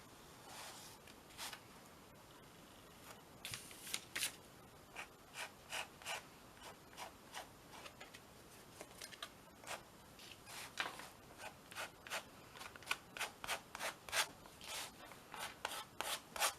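Short, scratchy rubbing strokes on a small art canvas, a few spaced out at first and coming faster, two or three a second, in the second half.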